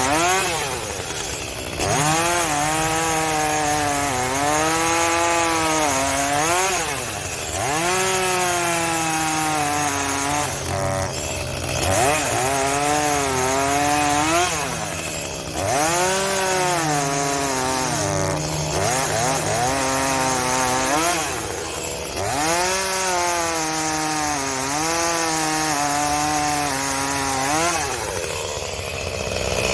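Two-stroke chainsaw cutting wood. The engine revs high and its pitch sags and recovers under load, and it eases off briefly about every three to four seconds between cuts.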